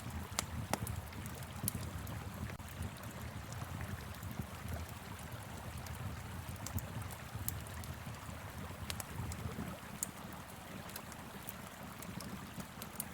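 Wood fire crackling, with scattered sharp pops, over the steady rush of a flowing river.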